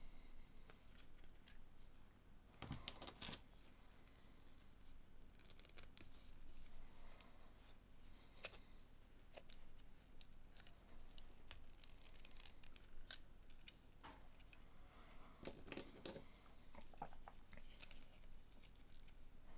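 Faint scattered clicks and taps of small plastic LEGO pieces being handled and pressed together, with two brief louder handling noises, one about three seconds in and one near the end.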